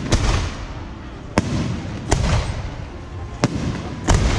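Fireworks going off at the Yanshui beehive rocket festival: five sharp bangs at irregular intervals over a steady noisy din.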